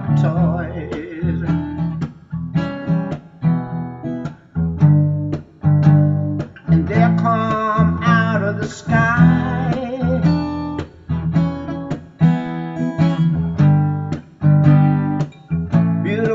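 Acoustic guitar strummed in a steady rhythm, a chord struck about twice a second.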